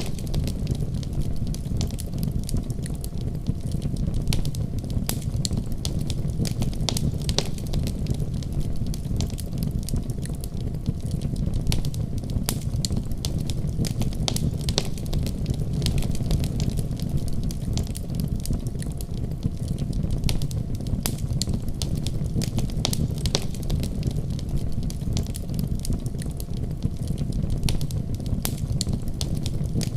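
Fire burning in a fireplace: sharp, irregular crackles and pops over a steady low rumble of flames.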